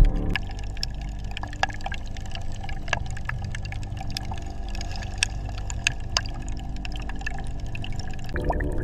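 Water sound ambience: a steady low rumble with scattered sharp drips and clicks throughout.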